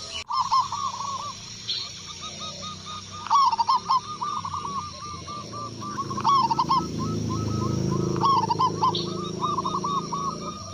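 Zebra dove (perkutut) song: phrases of quick, repeated cooing notes, loudest in several bursts with softer runs of notes between them. A low rumble rises under the calls in the second half.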